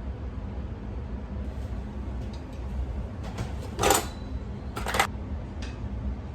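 Kitchen clatter: two short knocks about a second apart, like a cupboard door or dishes being handled, over a steady low hum.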